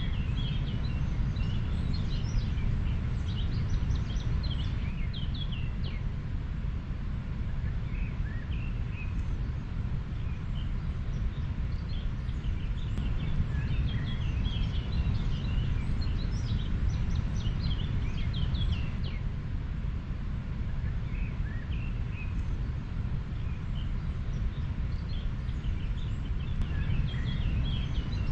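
A river's steady flowing rush, heaviest in the low end, with small birds chirping and twittering over it in scattered clusters, busiest a few seconds in, around the middle, and near the end.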